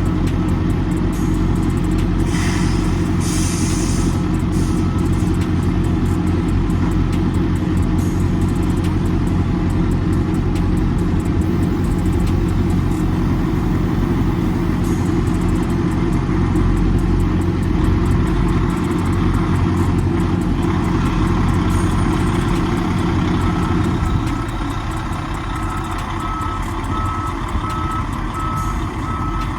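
Semi-truck diesel engine running steadily while backing a trailer into a dock, with a reversing alarm beeping at a steady rate, clearest near the end. About three-quarters of the way through, the engine drops to a lower, quieter idle.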